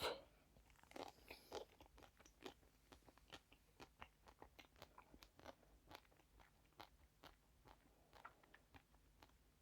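A bite into crunchy food, then crunchy chewing: many small cracks that come thick at first and grow sparser toward the end.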